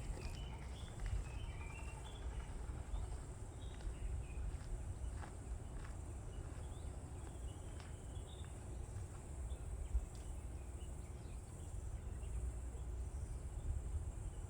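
Outdoor pond ambience: insects trilling steadily and high, with scattered short chirps in the first few seconds and a few light taps, over a continuous low rumble.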